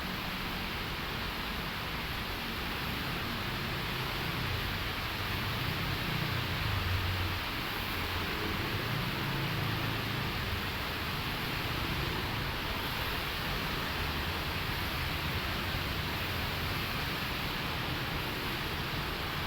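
Heavy rain falling steadily, an even hiss of rain, with a low rumble swelling under it for several seconds in the middle.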